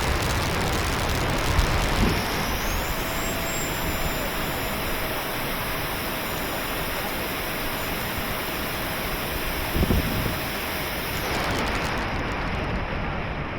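70mm electric ducted fan of a radio-controlled F-22 jet whining in flight: a steady tone that comes in about three seconds in and fades near eleven seconds. Throughout there is a steady hiss of wind and rain on the microphone.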